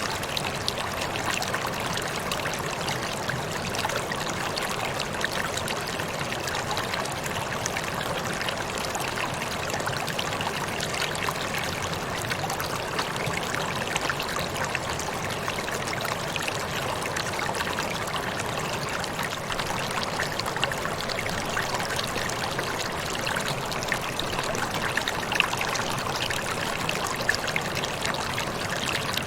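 Waterfall: water falling and splashing in a steady, unbroken rush, with small splashes flecking it throughout and little deep rumble.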